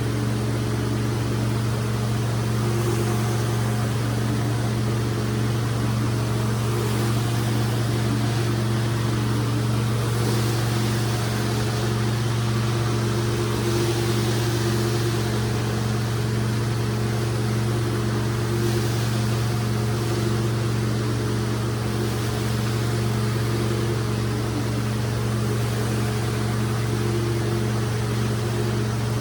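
Rug-cleaning machine motor running steadily with a low hum, and a hiss that swells every few seconds.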